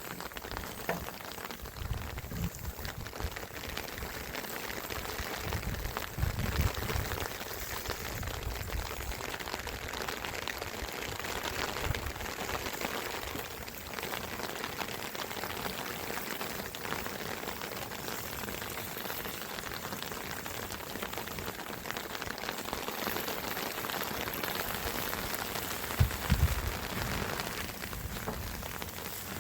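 Steady hiss of running water or rain, with a few low thumps now and then.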